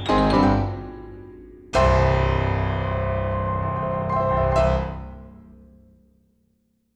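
Piano music ending: a chord is struck about two seconds in, a last accent follows, and the notes ring out and fade away to silence.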